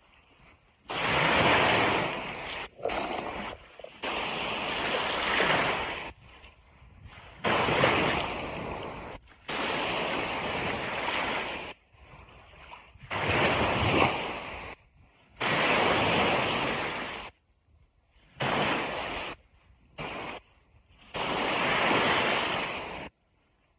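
Ocean surf breaking and washing on a beach, coming in uneven surges a second or two long, each cutting off abruptly into a short near-quiet gap.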